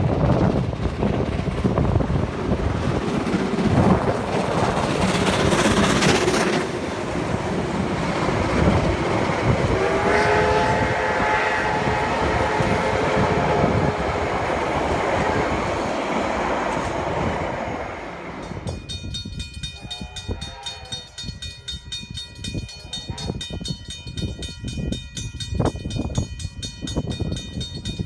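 A train passing close by with loud rolling rumble and wheel noise, sounding its horn for about four seconds around ten seconds in. About eighteen seconds in the rumble drops to a quieter rolling sound with a steady high ringing and scattered clicks.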